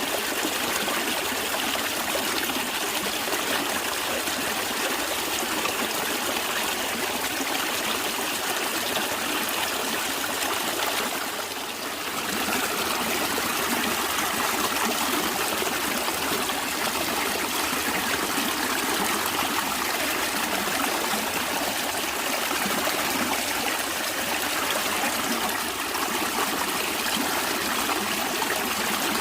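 Natural stream water flowing steadily, an even rushing and trickling that dips briefly about twelve seconds in.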